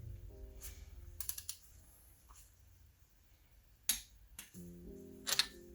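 Soft background music with keyboard notes, over a few sharp clicks of a wrench tightening the cylinder head stud nuts in steps; the loudest click comes about four seconds in.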